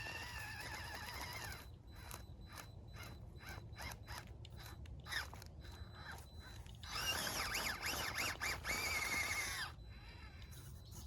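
Small electric motor and gearbox of a 1/18-scale RC rock crawler whining, the pitch rising and falling with the throttle. There is a run of clicks in the middle, and the whine returns louder for a few seconds near the end.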